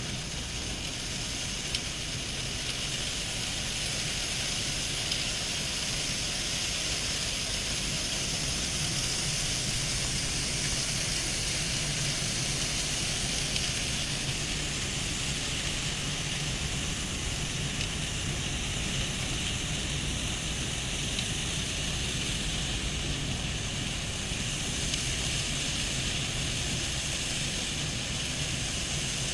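Steady mechanical running noise, a low rumble under a broad hiss, holding level without a break.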